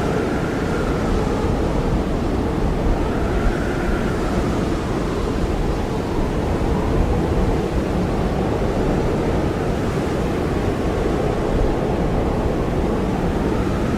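Strong blizzard wind blowing steadily, a dense rushing noise with a faint whistling tone that slowly wavers in pitch.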